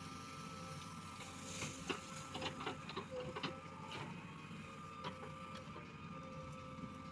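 Backhoe loader's diesel engine running steadily with a whine from its hydraulics. A burst of knocks and clatter comes a couple of seconds in, with a few more later.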